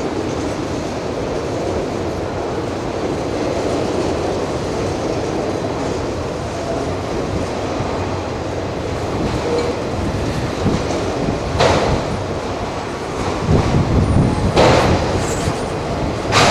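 Freight train of autorack cars rolling past, a steady rumble of wheels on rail. A few sharp clanks stand out, one about two-thirds of the way in and a couple more near the end.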